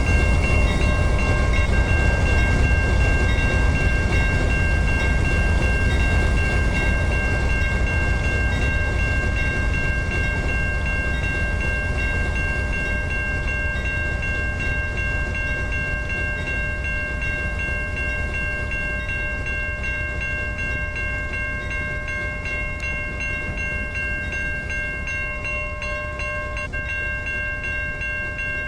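Norfolk Southern train rolling past: a steady low rumble that slowly fades, with several steady high-pitched tones held over it.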